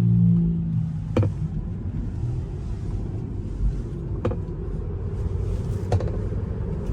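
Road and tyre noise inside a moving Tesla's cabin, a steady low rumble. A low hum fades out in the first half second, and three sharp clicks sound about a second in, around four seconds and near six seconds.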